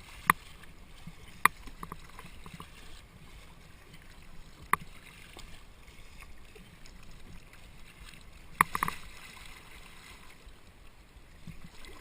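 Kayak paddling: paddle blades working the water with a steady splash and gurgle, broken by several sharp knocks, the loudest cluster about nine seconds in.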